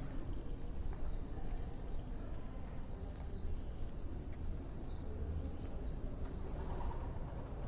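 A small bird chirping: a run of short, high chirps, about two a second, that stops about six and a half seconds in, over low outdoor background noise.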